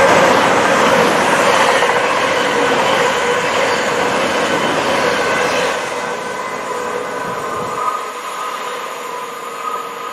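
Passenger trains passing through a station at speed: a continuous rush of wheels on rail with a steady whine running through it, louder in the first half and dropping a step about six seconds in.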